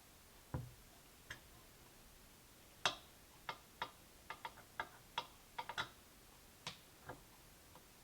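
Irregular clicks and taps of small hard parts being handled during PC assembly, about fifteen in all, bunched in the middle with the loudest about three seconds in.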